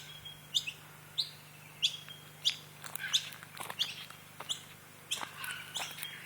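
Several small birds chirping: a run of short, sharp, high chirps, about one or two a second, sometimes overlapping.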